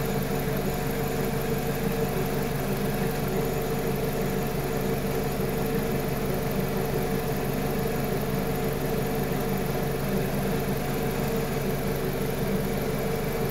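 Petrol car engine idling steadily, with its coil-on-plug ignition firing.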